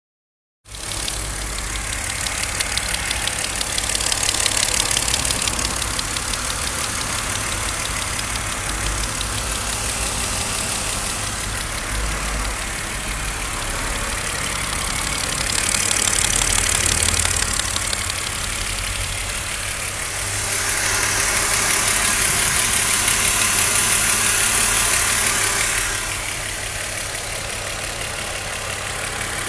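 VW Golf 3 VR6 six-cylinder engine running at idle, rising in revs a little three times, with a rattle that the owner is unsure whether he really hears.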